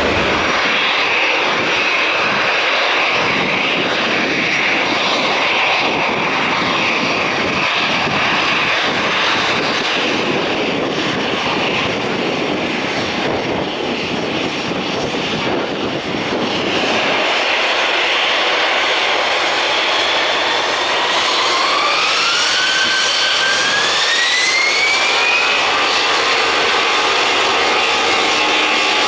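Airbus A321 jet airliner's engines running loud and steady on departure. About two-thirds of the way in, the engine whine rises in pitch.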